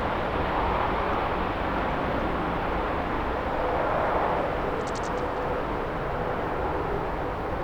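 Jet airliner engines: a steady rushing noise with a faint steady hum in it, slowly fading.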